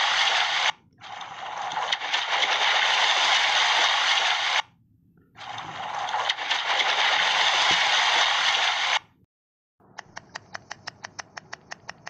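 Underwater crackle of a coral reef, the dense snapping of shrimp, in three long stretches with short breaks between them. Near the end it gives way to a run of sharp, evenly spaced clicks, about six a second.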